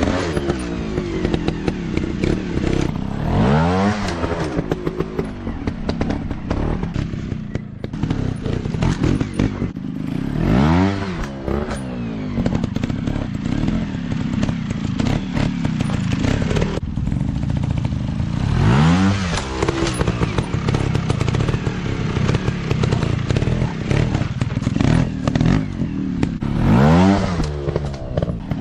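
Off-road dirt bike engines running under load, revving up and dropping back again about five times, with a steady engine drone underneath.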